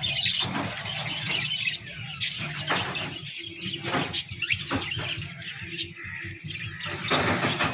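Many parrots calling at once, a busy chatter of short, sharp high calls over a steady low hum.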